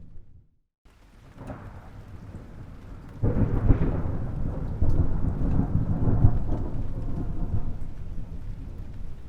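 Thunder: a low rumble that cuts out for a moment just after the start, then a sudden loud clap about three seconds in, which rolls on for several seconds before slowly fading.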